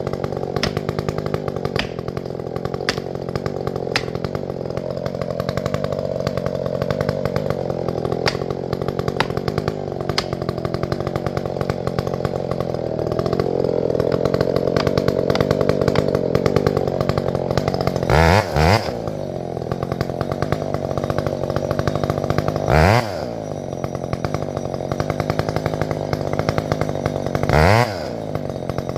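Two-stroke chainsaw running for most of the time with its pitch wavering, then dropping to idle and given three quick throttle blips, each a brief rise and fall in pitch, about five seconds apart.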